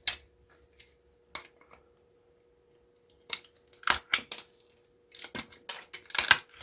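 Small metal parts from dismantled electric motors clinking and clattering as they are handled and dropped into a small box, in scattered sharp clicks that bunch into busier clatters about four and six seconds in. A faint steady hum runs underneath.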